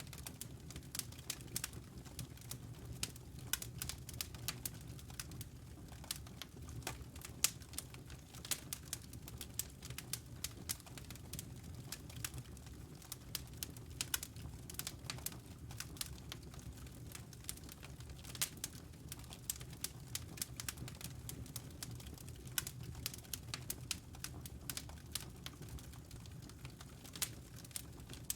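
Wood logs burning in a fireplace, crackling with many small irregular pops over a steady low rumble of the flames.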